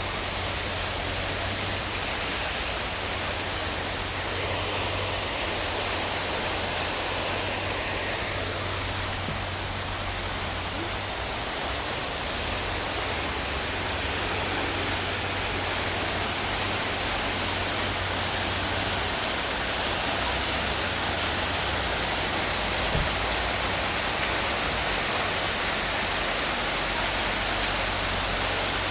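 Steady rushing of running water, an even wash of noise with a low rumble underneath.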